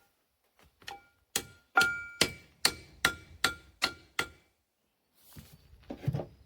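A hammer striking the steel gear cover of an excavator travel motor, about nine ringing metallic blows at two to three a second, to break the cover's liquid-gasket seal. A duller, lower knock and scrape follows near the end.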